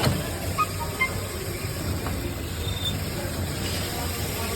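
Maruti Suzuki Baleno engine idling with the clutch pedal pressed: a steady low hum with a few faint 'kich kich' squeaks from the gearbox side. This is the sign of a worn, rusted clutch release bearing.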